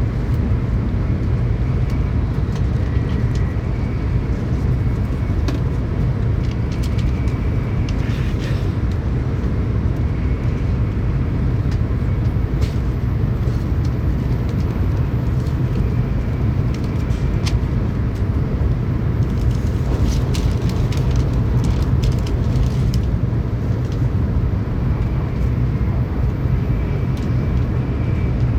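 Steady running noise of a Tokaido Shinkansen heard from inside the passenger car at speed: a low, even rumble with a faint high whine and occasional light clicks.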